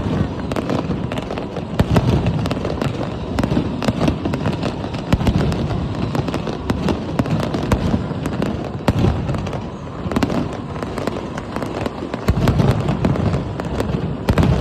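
Aerial fireworks display going off continuously, a rapid crackle of many sharp bangs and pops over a constant low rumble of launches and bursts.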